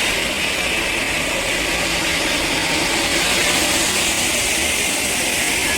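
Steady, continuous machinery noise, an even hiss without distinct strikes or rhythm.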